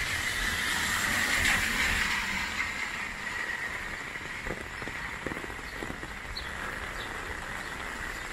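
Heavy rain falling on an umbrella overhead and on wet pavement, with a car passing on the flooded road, its wet tyre hiss swelling about a second in and then fading. A few heavier drops strike the umbrella later on.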